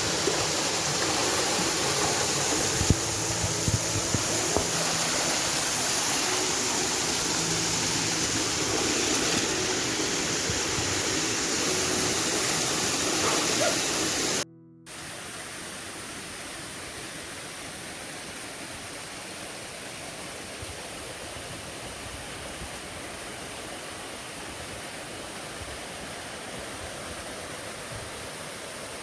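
Waterfall at Castaigne Falls, a steady rush of falling water. About halfway through it breaks off briefly and comes back noticeably quieter, as from a farther or different spot.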